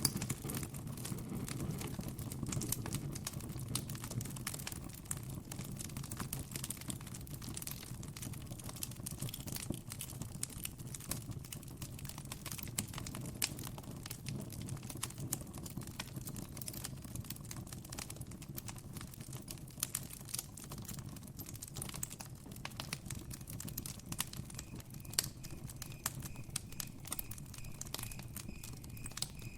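Campfire wood crackling and popping in irregular, closely spaced snaps over a low steady rumble. A faint high steady tone comes in near the end.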